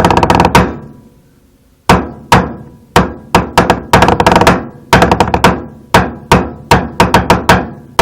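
Hip-hop backing beat without vocals: a fast drum roll fades out, then after a short pause sharp drum hits come back in an uneven, syncopated pattern, two to three a second.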